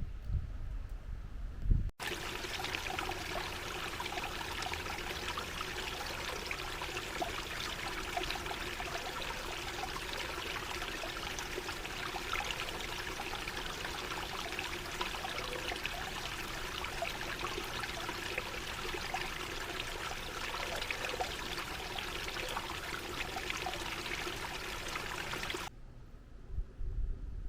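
River water running and trickling, a steady rush full of small splashes. It cuts in abruptly about two seconds in and cuts out near the end, with a low rumble before and after.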